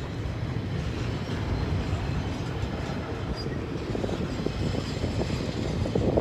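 Freight train rolling past at low speed and picking up speed, its wheels and cars giving a steady rumble.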